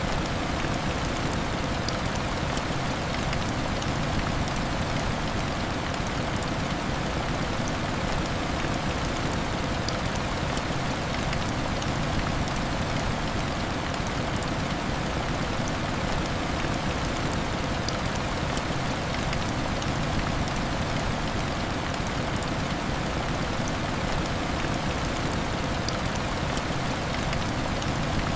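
Heavy rain falling steadily: a dense, even hiss with scattered small sharp drop ticks.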